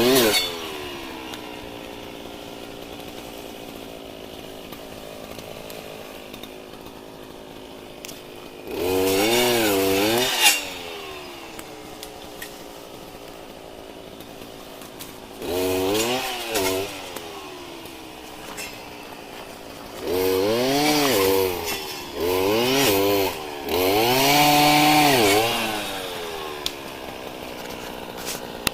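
Two-stroke chainsaw idling, revved up five times in short bursts, with the pitch climbing and falling back to idle each time.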